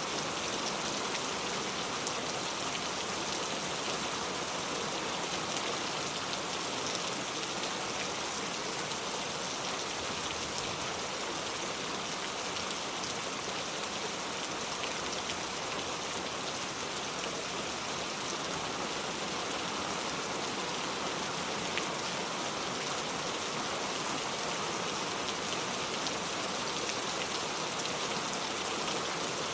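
Steady rain falling: an even wash of rain with faint individual drop ticks, unchanging throughout.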